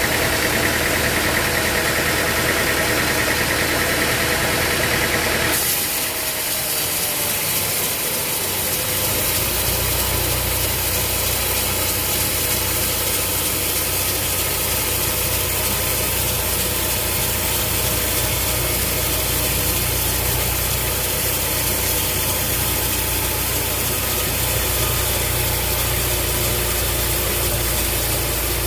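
An engine running steadily; its sound changes abruptly about five and a half seconds in, and a deeper low hum sets in a few seconds later.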